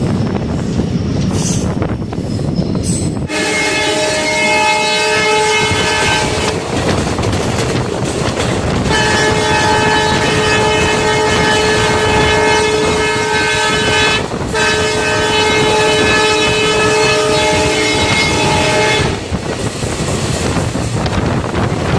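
Train running with a low rumble, and from about three seconds in a train horn sounds in long, steady blasts, weakening briefly twice, until a few seconds before the end.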